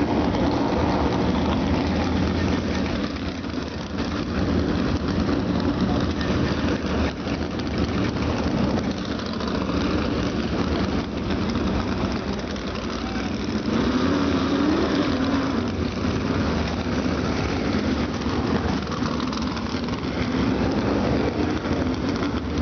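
Several USAC Silver Crown cars' 360-cubic-inch alcohol-burning V8 engines running together at low revs, a steady rumble whose pitch wavers briefly about two thirds of the way through, as the cars are fired and pushed off before the race.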